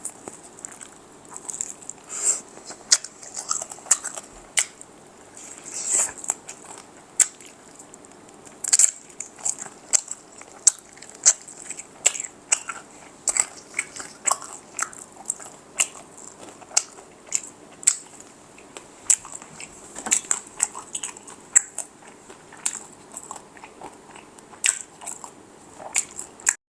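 Close-miked crunchy chewing of fried chicken: the crisp breading crackles and crunches in quick, irregular bites, several a second, with wet mouth sounds between.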